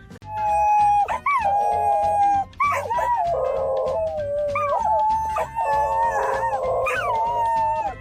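Dog howling in long held notes, each starting with an upward swoop before settling, breaking off and starting again several times.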